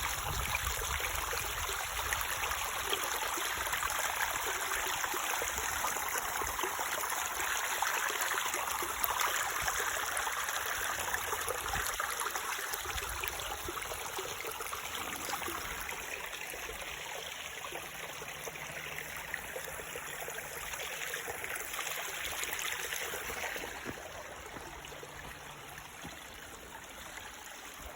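Rushing water of a waterfall or creek, a steady hiss that softens a little near the end.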